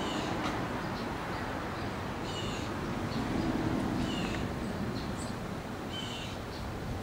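Outdoor ambience: birds chirping in short high calls every second or so over a steady low background noise.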